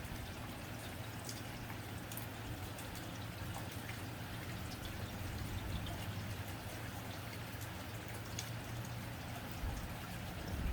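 Rain falling steadily on a tin roof, an even patter with individual drops ticking sharply on the metal, over a low steady hum. A couple of dull low thumps come near the end.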